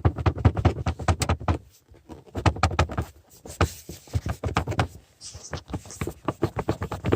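Lada Vesta's air-intake resonator and its plastic pipe to the air filter housing rattling and knocking in irregular bursts of quick clatter. The resonator's bracket and clip have worn and worked loose, most likely the plastic part, and the pipe fits loosely.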